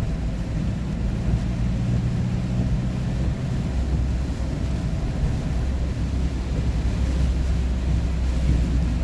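Steady low rumble of a vehicle on the road, engine and tyre noise heard from inside the cabin.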